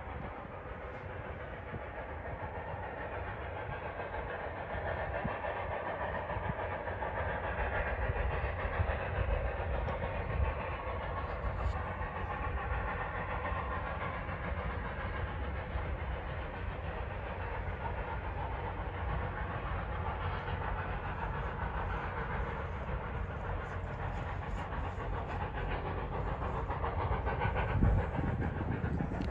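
A train rolling past: a steady rumble with the clatter of wheels on rails, swelling a little in the first few seconds and then holding steady.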